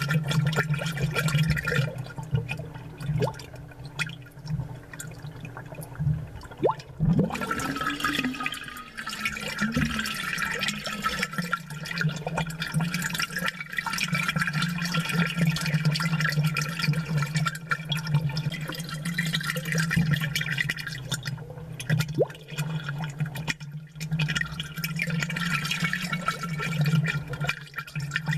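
Aquarium water bubbling and gurgling steadily over a constant low hum. The bubbling thins out for a few seconds early on, then returns at full strength.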